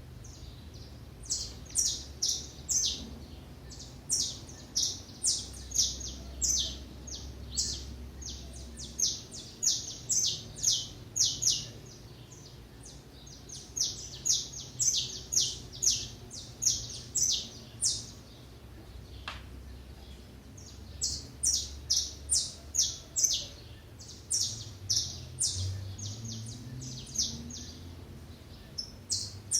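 Small wild songbirds at a feeder chirping: runs of short, sharp, high chirps, a few a second, in several bouts with short pauses between them.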